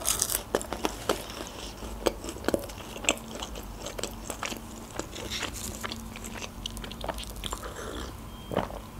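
Close-miked chewing of a McDonald's chicken nugget: soft crunches and wet mouth clicks at an irregular pace. Near the end comes a sip from a paper drink cup.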